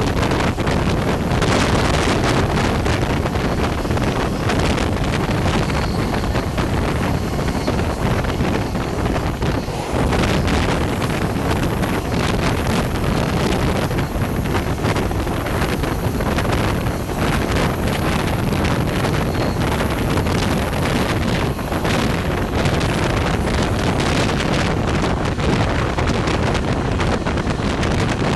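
Wind buffeting the microphone over the steady running noise of a passenger train moving along the track.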